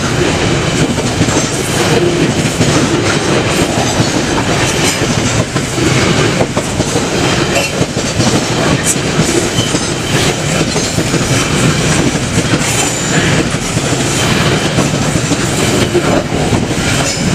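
Loaded coal wagons of a freight train rolling past: a loud, steady rumble with the clack of wheels over rail joints.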